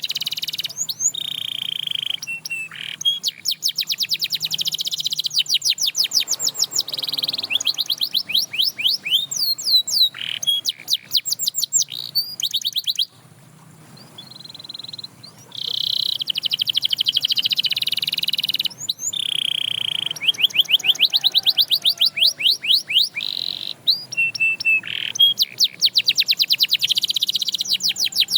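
Canary singing: fast trills of rapidly repeated high notes alternating with steady rolling tours, with a short pause about halfway through.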